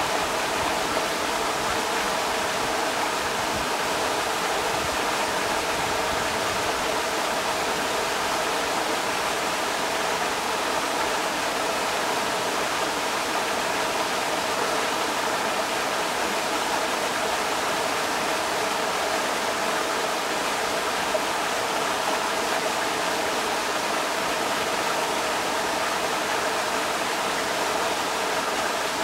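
Creek water rushing over rocks, a steady unbroken rush.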